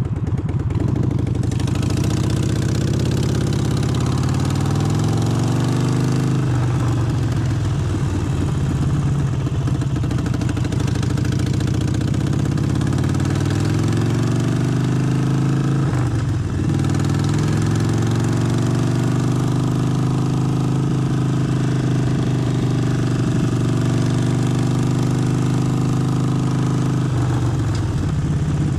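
Harley-Davidson Forty-Eight's 1200 cc V-twin engine pulling under way, its pitch climbing in long sweeps that drop back sharply three times, a few seconds in, just past halfway and near the end, as gears change.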